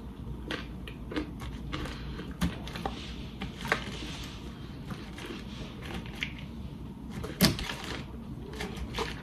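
A person chewing a mouthful of fast food, with scattered small clicks and taps from handling a plastic fork and food. The loudest tap comes about three-quarters of the way through.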